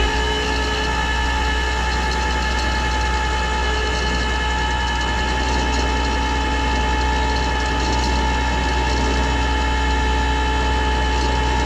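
Tow truck's hydraulics working: a steady, loud mechanical whine over the truck's engine held at raised revs.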